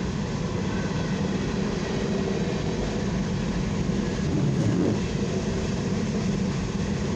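CSX coal hopper train rolling past, a steady rumble of steel wheels on the rails.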